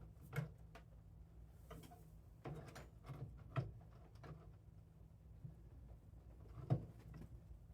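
Hand tools clicking and knocking against the snowblower's metal parts, with sharper knocks about half a second in, midway, and near the end.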